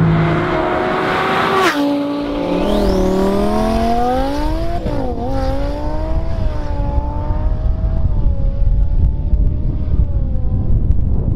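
Twin-turbo Audi R8 V10 engine accelerating hard through the gears. Its pitch climbs, drops sharply at an upshift about two seconds in and again about five seconds in, and climbs again. A brief rising whistle comes just after the first shift, and the engine note thins out near the end.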